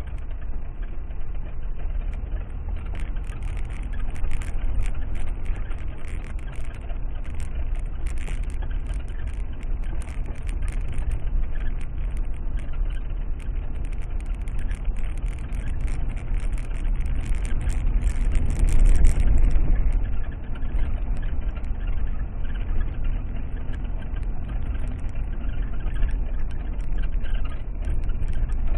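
Steady car engine and road rumble heard from inside a car, with faint scattered clicks and rattles.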